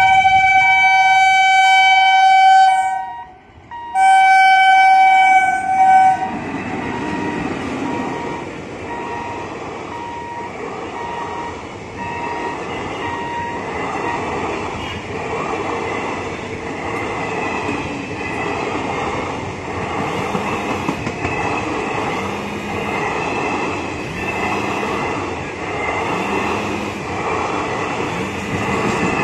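Electric locomotive sounding its horn in two long blasts, the first ending about 3 seconds in and the second ending about 6 seconds in, as it nears the level crossing. Then the passenger train runs past with a steady rumble and a regular clickety-clack of wheels over the rail joints, about one beat a second.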